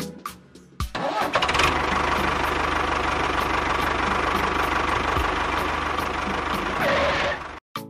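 A small engine starts about a second in and runs steadily, then cuts off abruptly near the end.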